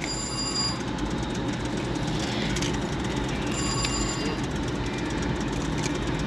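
Casino floor ambience: a steady din of slot machines and background noise, with a high electronic chime of several tones sounding briefly near the start and again about three and a half seconds in.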